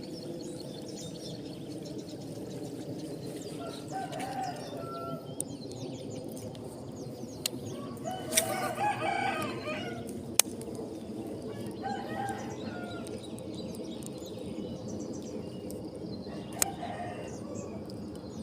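A rooster crowing about eight seconds in, with shorter fowl calls at other moments, over a steady low hum broken by a few sharp clicks.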